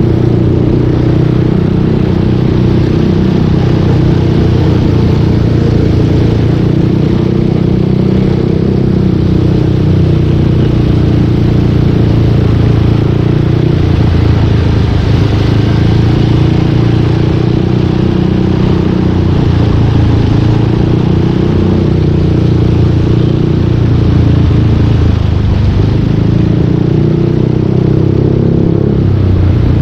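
Yamaha Aerox 155 V2 scooter's single-cylinder engine running through a full Yoshimura aftermarket exhaust while riding, its note rising and falling gently with the throttle, with a brief rise and drop near the end.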